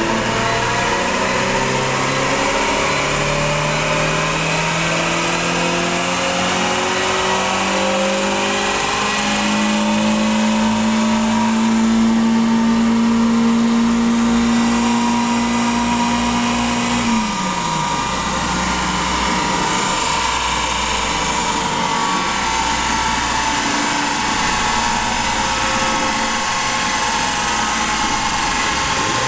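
Renault Clio 197's 2.0-litre four-cylinder engine on a rolling-road dyno: the engine note climbs in steps, is held high at full throttle, then drops sharply about 17 seconds in as the run ends. After that the rollers and engine keep up a steady rumble. The driver felt the run sounded different, as if something was not happy.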